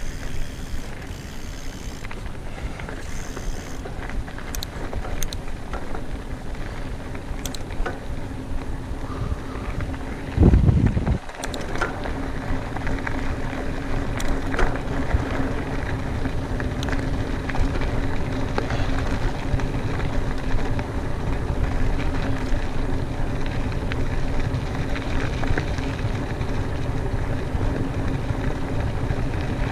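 Mountain bike in motion on a trail: tyre rolling noise and rattle with wind rushing over the microphone, a louder rumble about ten seconds in, and a steady hum from about twelve seconds in.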